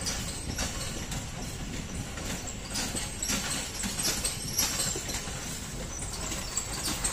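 Mumbai suburban electric local train passing close by: a steady rumble from the running train, with its wheels clacking irregularly over the rail joints.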